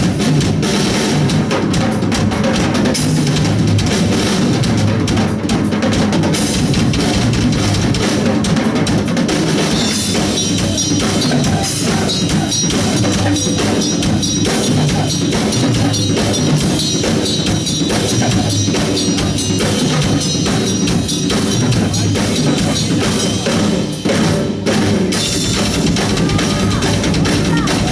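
Loud live band music driven by a drum kit: rapid, dense bass drum and snare hits under distorted band sound, with cymbals crashing steadily from about ten seconds in.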